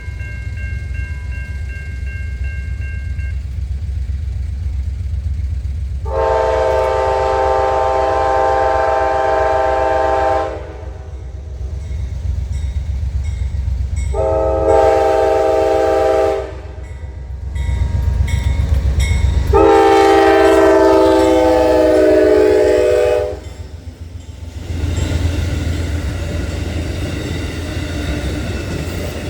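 Locomotive air horn sounding three blasts, long, shorter, then long, with the last one sagging slightly in pitch as the train approaches. A heavy engine rumble runs underneath, and after the horn the train passes with a steady rush of wheels on rail.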